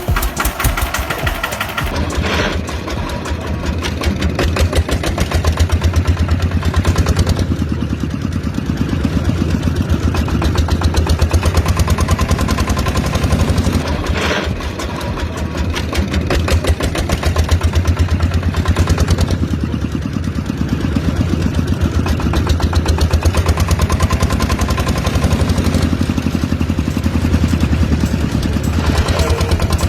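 Mini model diesel engine running steadily with a fast, even firing beat, its level rising and falling slightly every few seconds.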